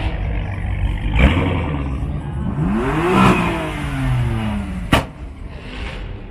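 Car engine revved once over a low idle rumble: the pitch climbs quickly to a peak and falls back over about two seconds. A sharp crack comes about a second in, and a louder one as the rev dies away, about five seconds in.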